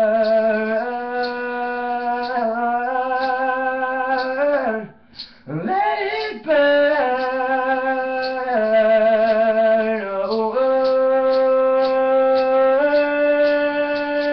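A man's voice singing unaccompanied, holding long wordless notes that step up and down in pitch, with a short breath about five seconds in.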